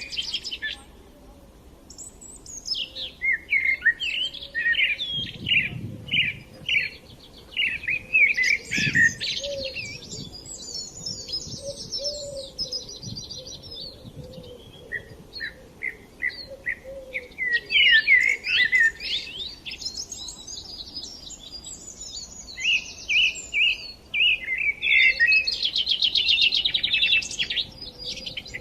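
Small songbirds singing, a steady chorus of short chirps, whistled notes and fast rattling trills.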